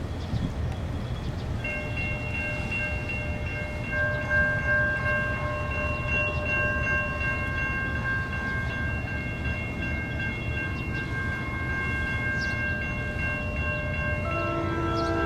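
An NJ Transit train led by an ALP-45DP locomotive rumbles into the station. Several steady high-pitched tones are held for most of the time, and a lower horn-like chord sounds near the end.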